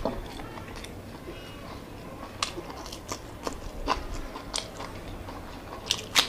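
Close-miked chewing and lip-smacking of a mouthful of rice and chicken, with short wet mouth clicks every half second or so. The loudest smacks come near the end as another handful goes into the mouth.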